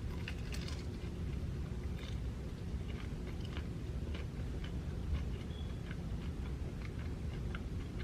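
Close-miked chewing of a shrimp egg roll, with many small crisp clicks scattered through it over a steady low hum.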